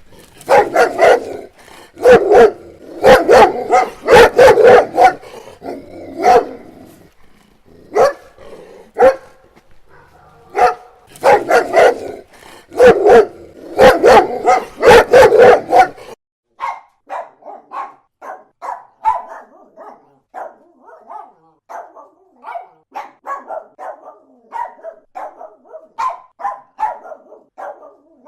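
Dogs barking: first a big dog giving loud barks in bursts of two to four, with short pauses between. About halfway through, it gives way abruptly to a smaller-sounding dog yapping quickly and steadily in higher, quieter barks.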